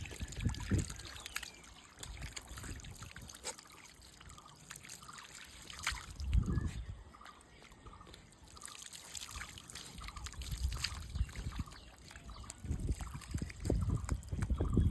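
Water trickling and splashing, broken by scattered clicks and a few heavier low thuds.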